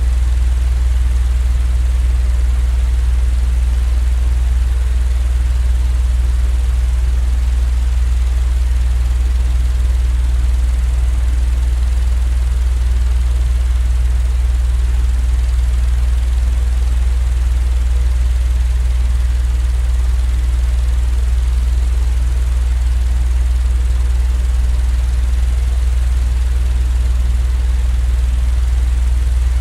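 Electric fan running with a steady, unchanging low hum, played as sleep white noise.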